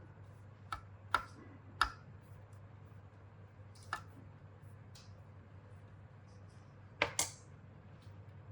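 Scattered sharp clicks and light knocks of small hard parts and tools being handled, about six in all with two close together near the end, over a low steady hum.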